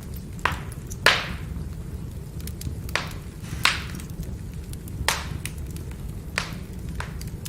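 Burning firewood crackling: about seven sharp pops, the loudest about a second in, with many faint ticks between them over a steady low rumble of the fire.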